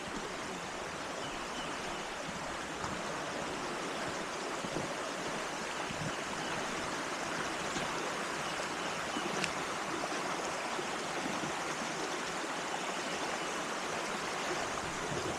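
Steady rush of a river swollen with floodwater after heavy rain.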